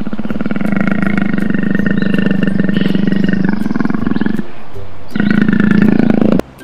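A big cat's roar, played as the cartoon leopard's voice. One long, growling roar of about four seconds is followed after a brief gap by a shorter roar that cuts off suddenly.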